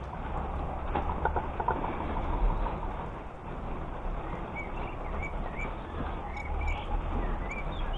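A small bird chirping, about eight short chirps in the second half, over a steady background hiss and low rumble. A few light taps come a second or two in.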